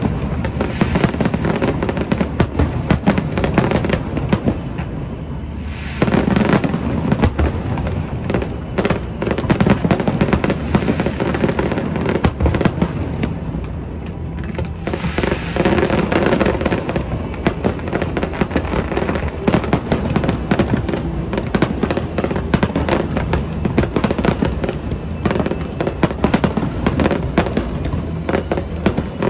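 Fireworks display: dense, continuous volleys of aerial shells bursting and crackling, with short lulls about five seconds in and midway through, each followed by a rapid barrage. Music plays underneath.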